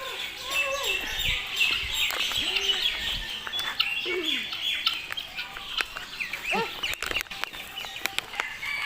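A flock of caged birds chirping rapidly and continuously, with a few lower, arched calls now and then.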